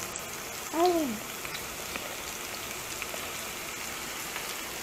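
Chopped garlic and white onion sizzling in melted butter in a frying pan: a steady soft hiss, with small clicks of a spatula stirring. A short vocal sound, rising then falling in pitch, about a second in.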